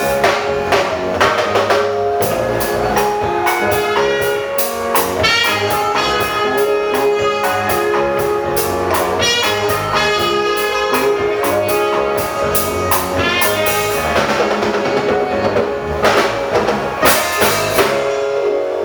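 Band music: a drum kit keeping a steady beat under held horn lines.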